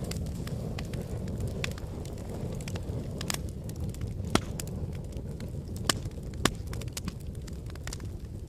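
Wood fire burning in a fireplace: a steady low rumble of flames with frequent crackles and sharp pops of burning logs, the loudest pops a little past halfway.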